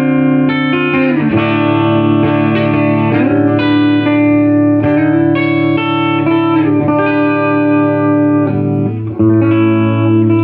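Electric guitar (a Gibson SG Standard) played through a 1968 Fender Super Reverb tube amp with its reverb on: sustained chords and single notes ringing out, changing every second or so, with a short break just after nine seconds before a new chord.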